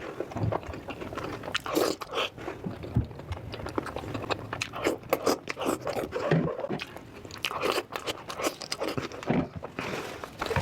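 Close-miked eating: crunchy food being bitten and chewed, a dense, irregular run of crunches.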